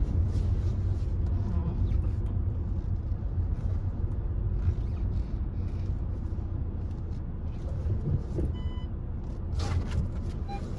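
Cabin noise of a Volkswagen Touran 1.6 TDI on the move: a steady low rumble from the diesel engine and the road. A short electronic beep sounds about eight and a half seconds in.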